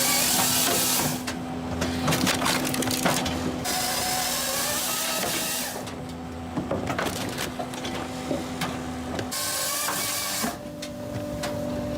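Firewood processor at work: a steady machine hum under the sharp cracking and splintering of logs being split, with a few stretches of loud hiss between them.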